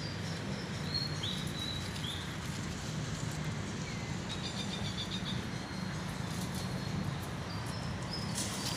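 Outdoor ambience: a steady low hum with small birds chirping high and short, a few single chirps about a second in and a quick trill of chirps about four seconds in.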